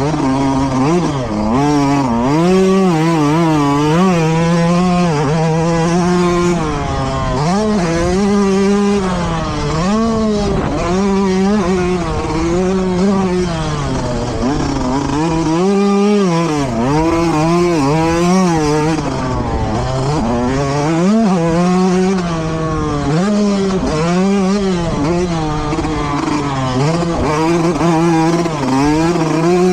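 A motocross bike's engine, loud and continuous, revving up and dropping back over and over as the throttle is opened and closed, rising and falling in pitch every second or two.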